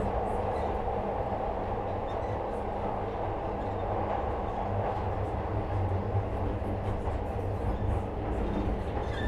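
A 2nd-generation Glasgow Subway car (Metro-Cammell stock) running through the tunnel, heard from inside the car: a steady, even rumble of wheels and running gear with a low hum beneath it.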